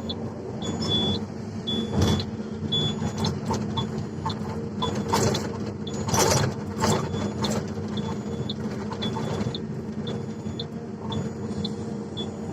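Excavator's diesel engine running steadily, with several loud knocks and clatters, one about two seconds in and a cluster between about five and eight seconds in.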